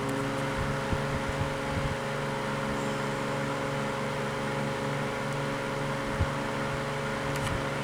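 Antique GE Vortelex two-speed table fan running on high with its oscillator disengaged: a steady motor hum with several fixed tones under the even rush of air from the blades.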